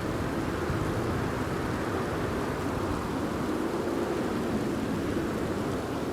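Steady rain falling, an even, dull noise with a low rumble underneath and no sharp claps.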